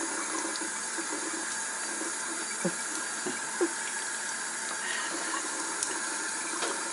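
Tap running steadily into a sink, with a few short splashes about three seconds in.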